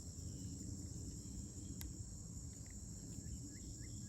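Steady, unbroken, high-pitched chirring of insects such as crickets, with a few faint short chirps near the end.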